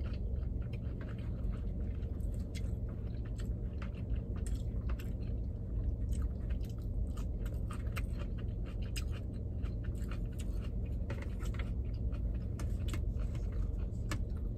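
Close-up chewing of sushi: a steady run of small wet mouth clicks and squishes. A steady low hum runs underneath.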